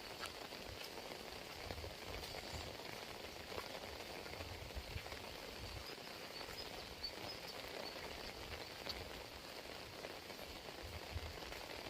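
Heavy rain falling steadily, with scattered drops ticking close by and faint irregular low thuds beneath.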